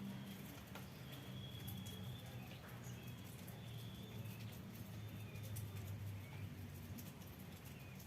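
Faint village outdoor ambience: a low steady hum, short high bird calls, and scattered light ticks.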